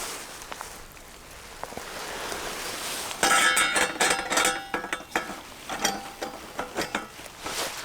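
Metal camp gear clinking and clattering, with short ringing tones, beginning about three seconds in after a stretch of steady hiss.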